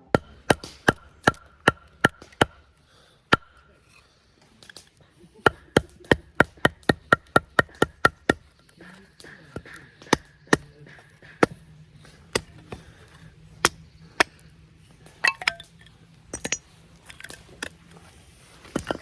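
Firewood being chopped with sharp, quick strikes of a blade on wood. A fast run of about four strikes a second comes in the middle, and there are scattered lighter knocks near the end.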